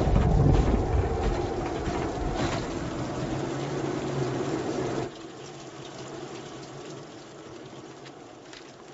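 Hurricane wind and rain: a steady rushing noise with a low hum beneath it, dropping to a quieter level about five seconds in.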